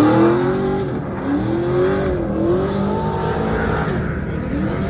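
Car engines revving, their pitch sweeping up and falling back several times over a steady low engine drone.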